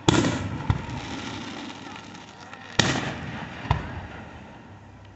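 Aerial fireworks going off: two loud bangs about three seconds apart, each followed under a second later by a smaller bang, with a long rumble dying away after each.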